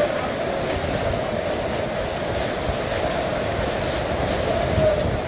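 Steady rushing of floodwater, with wind buffeting the microphone.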